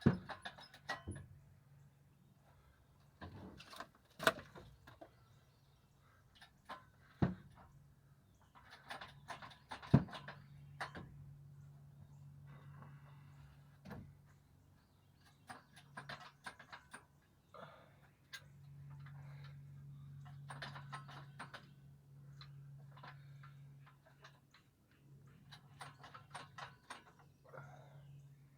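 Scattered metallic clicks, clinks and knocks of tools and parts during work on a 1977 Cadillac engine's cylinder heads, with a few sharp clanks. A low steady hum comes and goes.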